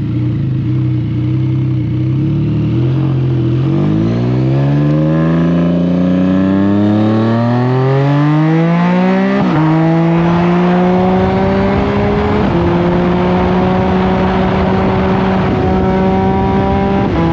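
Can-Am Spyder F3-S's Rotax 1330 inline three-cylinder engine accelerating hard: the pitch holds for a few seconds, then climbs steeply, drops suddenly at an upshift about halfway through, dips again at a second shift, holds high, and falls away near the end as the throttle comes off.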